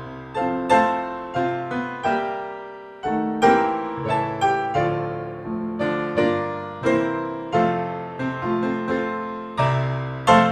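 Background piano music: struck notes and chords, each dying away before the next, at an unhurried pace.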